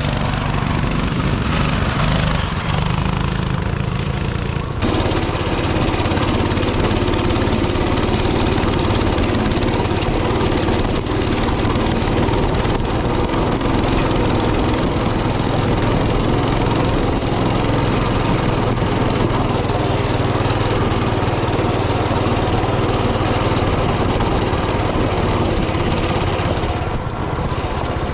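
Coleman mini bike's Predator 224 single-cylinder four-stroke engine running steadily as the bike is ridden. The sound changes abruptly about five seconds in.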